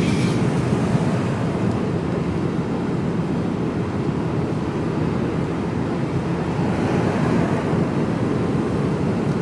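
Steady engine and road noise inside the cab of a Mercedes Actros lorry on the move, an even low rumble.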